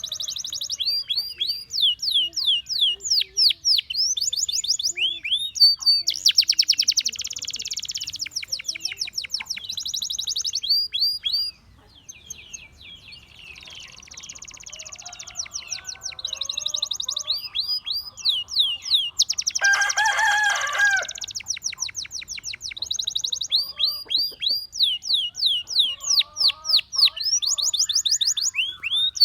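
Gloster canary singing a long song of fast, rapidly repeated high trills and rolls, pausing briefly a little before the middle. About two-thirds of the way in there is a short, louder, lower-pitched call.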